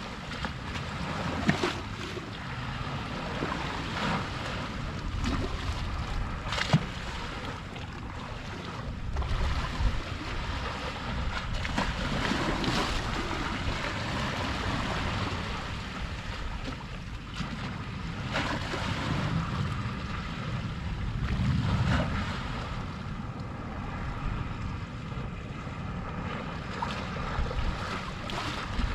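Sea waves washing against the shore in slow swells, with wind buffeting the microphone and a couple of sharp knocks.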